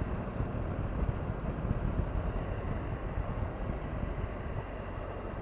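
Triumph Tiger 1200's three-cylinder engine running as the motorcycle is ridden along, a steady low rumble mixed with wind and road noise.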